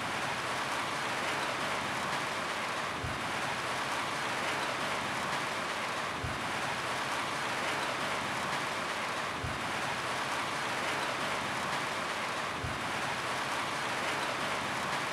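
Rain falling steadily on a roof: an even, unbroken hiss. A soft low thump recurs about every three seconds.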